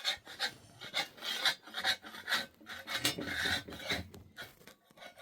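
Repeated rasping, scraping strokes, about two a second, like something being rubbed or scraped by hand.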